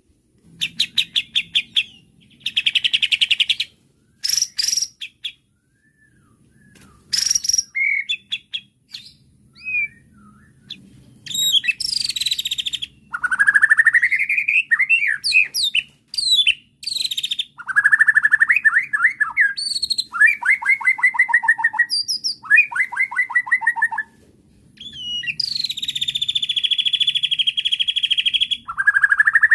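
White-rumped shama (murai batu) singing a varied song of separate phrases: fast trills, rising whistled slurs and buzzy rattles, with short pauses between them and a long buzzy rattle near the end.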